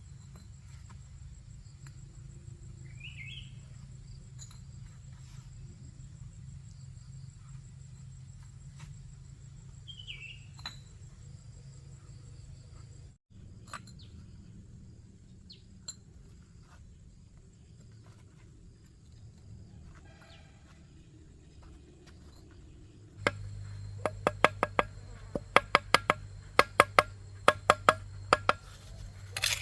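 Countryside ambience: a steady high insect drone with a couple of short bird chirps. About 23 seconds in this gives way to a run of sharp, irregular clicks or knocks over a low hum.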